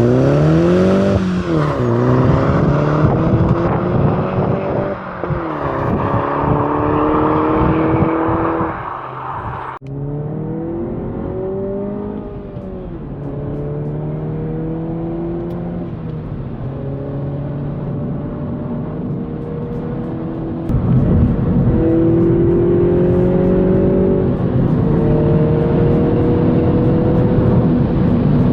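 Mini Cooper S F56's turbocharged four-cylinder running through a cheap aftermarket full exhaust system, pulling through the gears. The engine note rises steadily, then drops at each of several upshifts.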